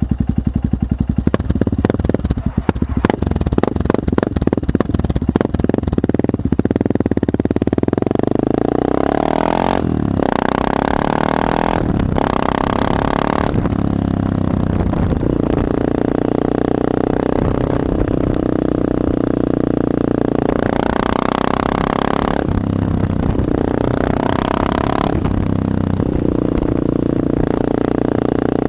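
Yamaha XT600E's single-cylinder four-stroke engine through a full Arrow Dakar replica exhaust with no dB killer, loud. It idles with distinct separate thumps, then is revved up about seven seconds in and held at higher revs for long stretches, with several drops and blips of the throttle.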